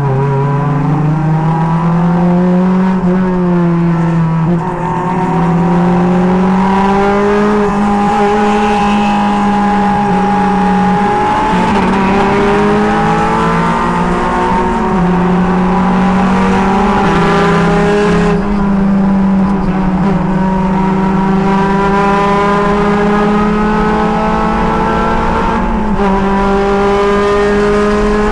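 Race car engine running hard at high revs, heard through a helmet camera in the cockpit; its pitch holds fairly level and dips briefly and recovers a few times.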